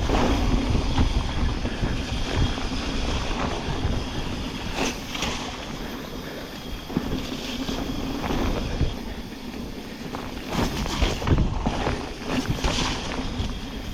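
Wind buffeting an action-camera microphone over the noise of a mountain bike descending a wet, muddy trail: tyres on wet ground and the bike knocking and rattling over bumps.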